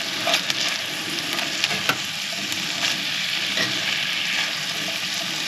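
Turkey sausage and onions sizzling in a hot cast iron pan, with short clicks and scrapes now and then as a utensil stirs them.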